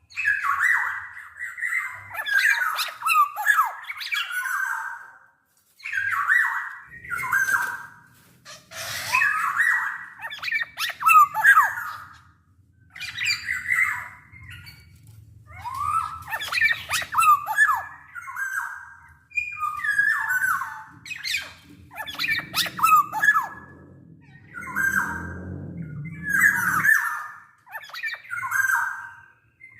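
Black-naped oriole calling over and over in runs of mixed whistled and harsh, squawking notes that glide up and down, with short pauses between runs.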